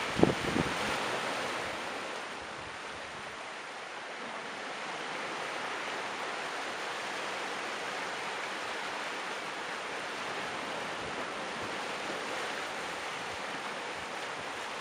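Steady rush of heavy sea surf washing over a rocky shore, easing slightly a few seconds in, with a brief knock near the start.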